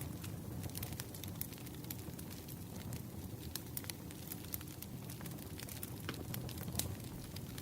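Wood fire crackling: a steady low rush of burning logs with frequent irregular sharp pops and snaps.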